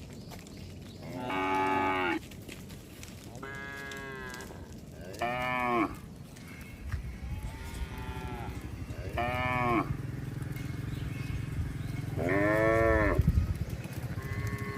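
Cattle mooing, about six calls a second or two apart from several animals at different pitches. A low rumble runs under the later calls.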